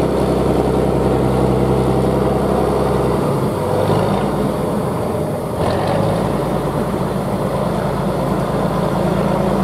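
Heavy truck engine running with a steady note, which about three seconds in breaks into a rougher, shifting engine sound.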